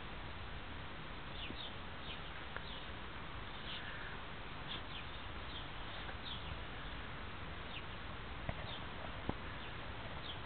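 Small birds chirping in short, high, falling calls, repeated irregularly over a steady background hiss. Two faint clicks near the end.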